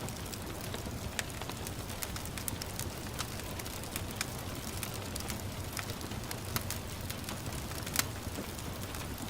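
Wood fire crackling, with scattered sharp pops, the loudest about eight seconds in, over a steady rush of gentle rain.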